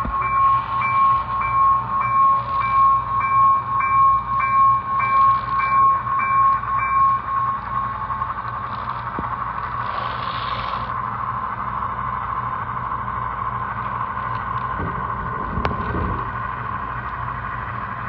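A railroad bell ringing in a steady, even rhythm of about one and a half strokes a second, stopping about seven and a half seconds in. After it comes a steady running rumble.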